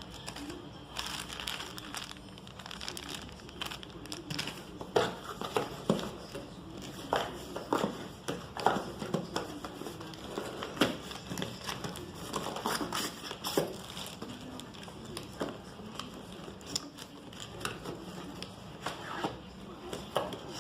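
Unboxing packaging being handled: irregular crinkling and rustling, with scattered sharp knocks and clicks.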